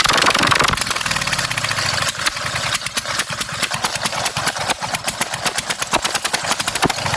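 Straight-piped V-twin engine of a racing lawn mower running, then dropping to idle about two seconds in, where the exhaust breaks into separate, unevenly spaced sharp beats.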